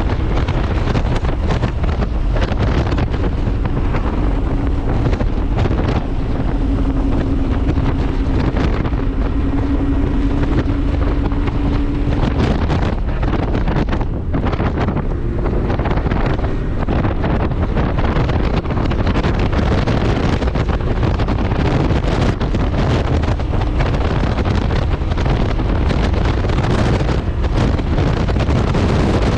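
Heavy wind buffeting on the microphone over a 2001 Subaru 2.5RS driven at speed, its 2.5-litre flat-four heard as a steady drone for about the first twelve seconds under the wind.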